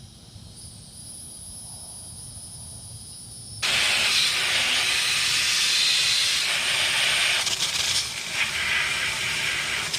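A water hose spray on a muddy mountain bike, switched on suddenly about a third of the way in and then running as a loud, steady hiss. Before it starts there is only a faint, steady background.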